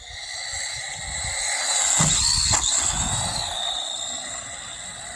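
Brushed electric motor and gears of a DeeRC 9310 1/18-scale RC truck whining, the pitch rising and falling with the throttle, over the rumble of its tyres on the ground. There is a single knock about two and a half seconds in.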